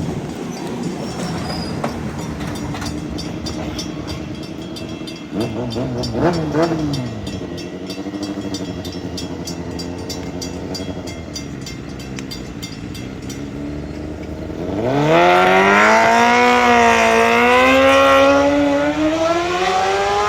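Long Island Rail Road M7 electric train approaching and passing a grade crossing, with the crossing's bells ticking steadily over the rumble. About 15 seconds in, a loud pitched whine sets in, wavering and climbing in pitch to the end.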